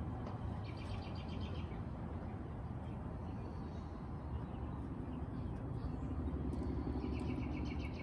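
A songbird singing two short trills of rapid repeated high notes, one about half a second in and one near the end, over a steady low rumble.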